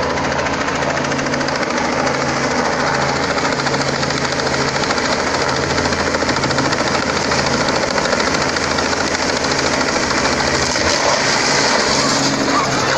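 Helicopter running close by: a steady, rapid rotor beat over engine noise, growing a little louder and brighter toward the end.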